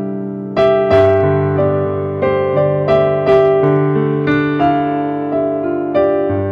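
Slow instrumental keyboard music with a piano-like tone. Chords and a melody are struck every second or so and left to ring and fade.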